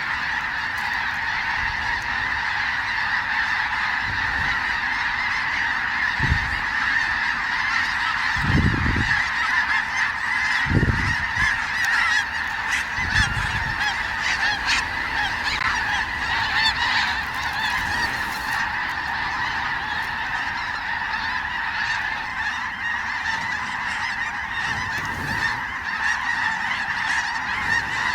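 A large flock of snow geese calling without a break, many high honks overlapping into a steady din. A few low thumps come through between about six and fourteen seconds in.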